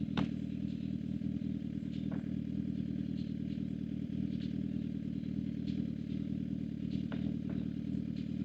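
Suzuki GSX-R750's inline-four engine running steadily at an even pitch, with a few light ticks.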